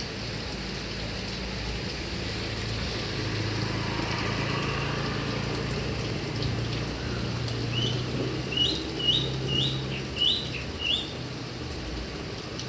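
Heavy rain falling steadily on grass and palm trees. A little past halfway, a bird calls about six short rising chirps in quick succession over about three seconds.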